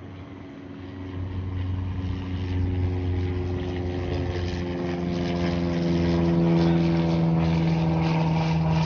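Boeing 777F's twin GE90 turbofan engines spooling up toward full takeoff power: a rising hum of several tones over a roar that grows louder for about six seconds, then holds steady.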